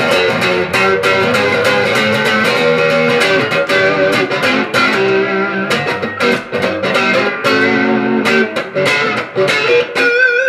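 Electric guitar, a Stratocaster played through a rack effects processor, playing a quick run of picked notes. It ends on a held note with vibrato near the end.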